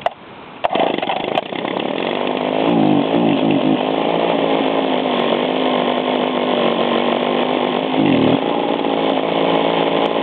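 Small Echo two-stroke yard-tool engine cold-started on choke with the pull cord, catching less than a second in and then running fast and steady. Its pitch dips briefly twice, early on and near the end.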